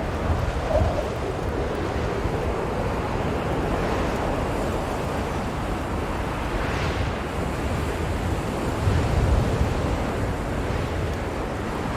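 Blizzard wind blowing strongly, a steady rushing noise that swells in gusts, one about seven seconds in and a deeper surge just after.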